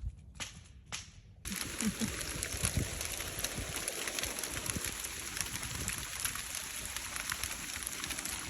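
Fine hail pellets ticking down a few at a time, then a dense, steady patter of hail on surfaces with a low rumble underneath, starting suddenly about a second and a half in.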